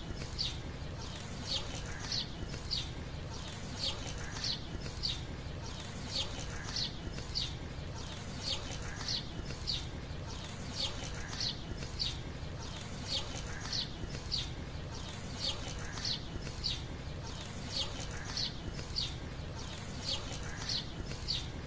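A bird calling over and over: short high chirps, each falling in pitch, about two a second, over a steady low background noise.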